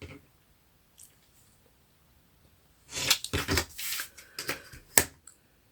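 Scissors cutting through card: a run of short crisp snips and paper rustling about three seconds in, ending with one sharp click.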